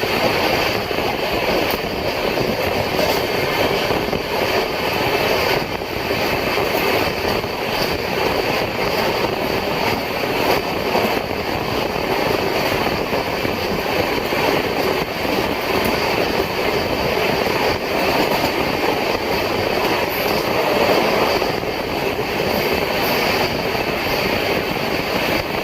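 Humsafar Express passenger train running, heard from on board: a steady rumble and rush of wheels on rail and air that holds even throughout.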